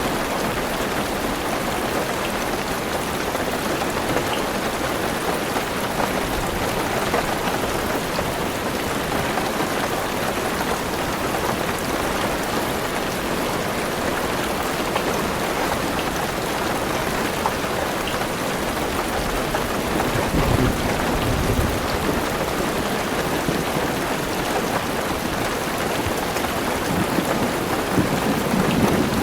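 Heavy rain drumming steadily on a car's roof and windows, heard from inside the car. A low rumble of thunder swells about two-thirds of the way in and again near the end.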